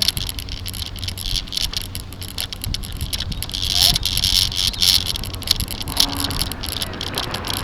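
Bicycle riding over the road: a low rumble with rapid rattling and clicking from road vibration, and bursts of wind noise on the microphone.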